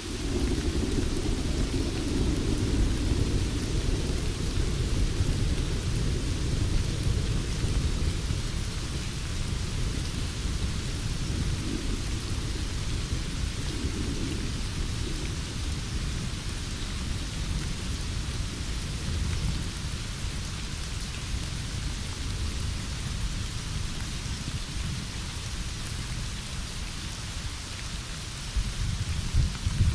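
Heavy rain falling steadily, with a long low roll of thunder that comes in suddenly at the start and slowly dies away, and another rumble of thunder building near the end.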